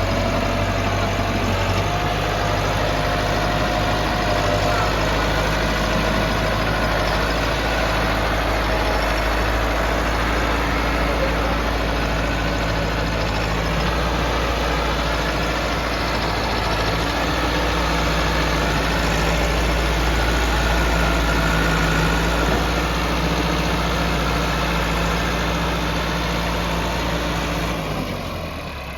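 Massey Ferguson 385 tractor's diesel engine running steadily while working a chisel plough, with a faint wavering whine over the engine note; the sound drops away near the end.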